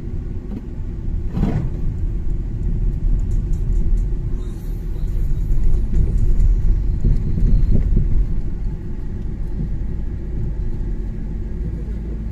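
Car driving on a snowy road: a steady low rumble of engine and tyres, swelling for a few seconds midway, with a brief knock about a second and a half in.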